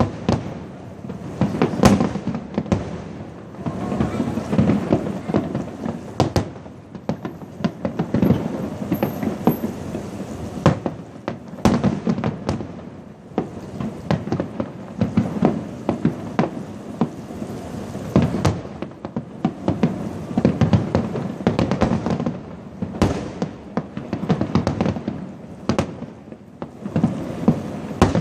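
Fireworks display going off continuously: many sharp bangs in quick succession over a dense crackle, with no break.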